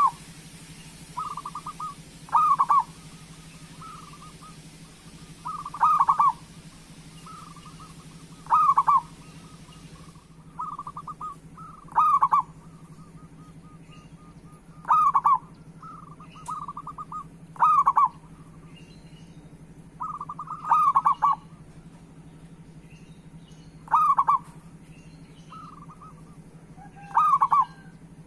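Zebra doves (perkutut) cooing: loud, short phrases repeat about every three seconds, with softer rapid trilling notes in between, over a steady low hum.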